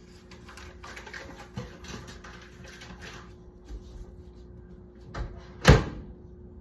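Light rustling and handling noises, then a small knock and one loud clunk near the end, like a microwave door being shut, over a faint steady hum.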